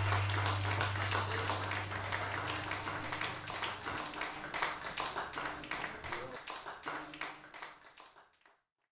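Audience clapping after a live rock set. The clapping thins out and fades away to silence near the end, with a low amplifier note from the band ringing under it for the first few seconds.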